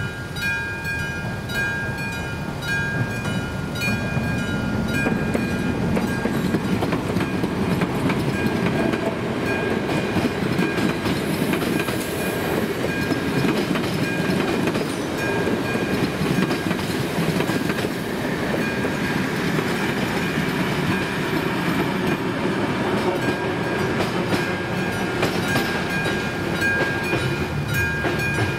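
A passenger train of coaches passes over a level crossing, its wheels clacking over the rail joints, while the crossing's AŽD 71 warning signal rings a rhythmic electronic bell. The train noise builds about four seconds in and drowns the bell. Near the end it fades and the bell comes through again.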